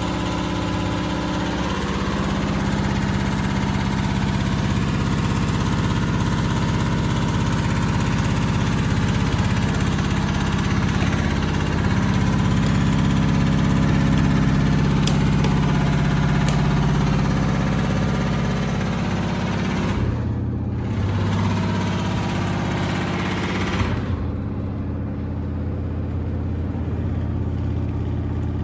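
Samsung WD70T4047CE front-loading washer-dryer running with a load of sneakers: a steady motor hum with a few low pitched tones over a hiss. About twenty seconds in the sound shifts, and about four seconds later the higher hiss drops away, leaving the low hum.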